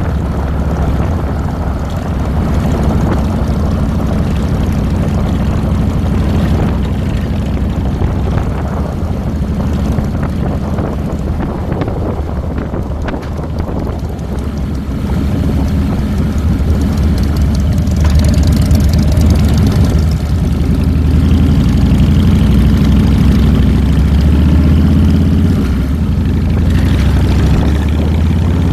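2007 Harley-Davidson Fat Boy's Twin Cam 96 V-twin engine running steadily during a ride, picked up close by a handlebar-mounted camera; the engine gets louder a little past halfway through.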